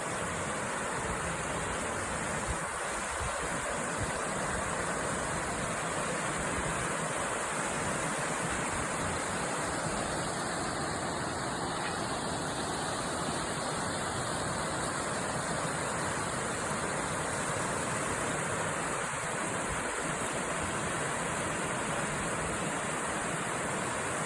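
River water flowing, a steady rush that holds at one level throughout.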